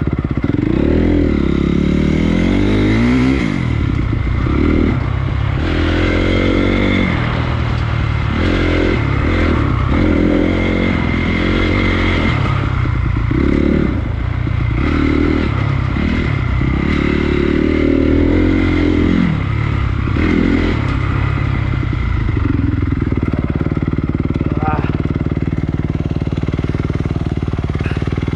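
Honda CRF250 dirt bike's single-cylinder four-stroke engine revving up and dropping back over and over as the throttle is worked. About three-quarters of the way in it settles into a steady, lower drone.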